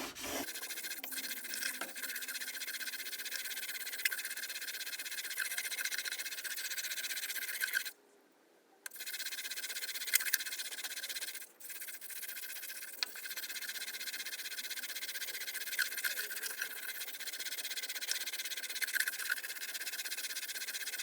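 Record No. 5 plane blade being rubbed back and forth on 400-grit abrasive paper with heavy pressure, a steady scratchy hiss as the first bevel is ground. It stops for about a second around eight seconds in and dips briefly a few seconds later.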